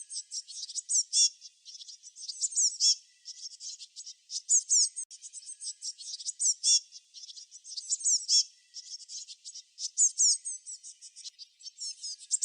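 Small songbirds chirping, many overlapping: quick, high, falling chirps and short trills in an unbroken stream.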